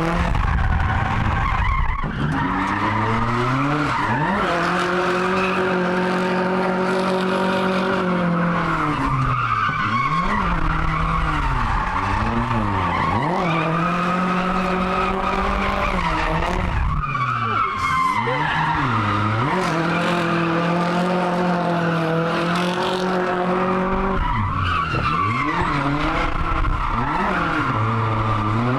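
Car engine held at high revs while drifting, with tyres screeching and skidding; the revs drop and climb again about five times between long sustained slides.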